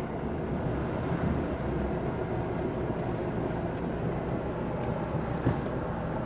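Motorboat engine running steadily, heard from on board, with one brief knock about five and a half seconds in.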